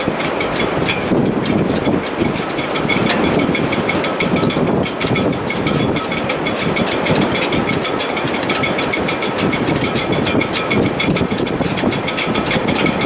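Gale-force wind in a sailboat's shrouds and rigging: a loud, steady rushing that surges unevenly, with rapid fine ticking and rattling over it.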